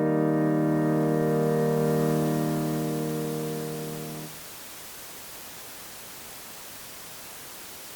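Final held chord of a digital keyboard's piano voice on auto-play, fading and then cutting off sharply about four seconds in. After that there is only a steady hiss from the cable between keyboard and camera, which is loud when no notes are sounding.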